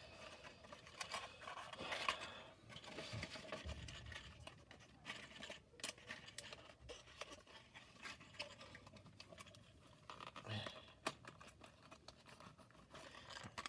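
Faint handling of cardboard playset parts: scattered scrapes, rustles and small clicks as pieces are bent and tabs pushed into slots.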